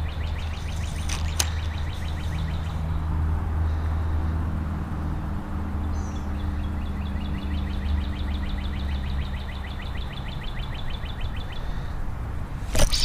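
A bird trilling: long runs of rapid, even notes, twice with a short break between, over a steady low rumble. A sudden loud burst of noise near the end.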